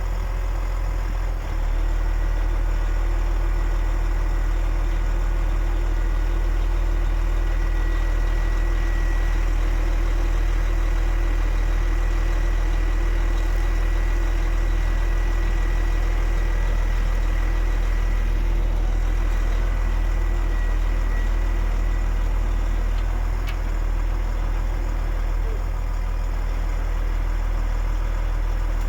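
DAF XF 105.460 truck's 12.9-litre PACCAR MX straight-six diesel idling steadily, with a faint steady whine above the engine note.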